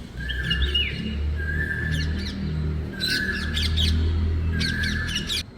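Rose-ringed parakeet calling in four bursts of sharp, high squawks about a second apart. The calls cut off suddenly just before the end.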